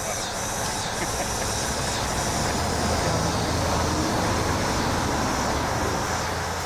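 Marine helicopter running, a steady low rumble with rotor and turbine noise that swells in the middle and eases off near the end.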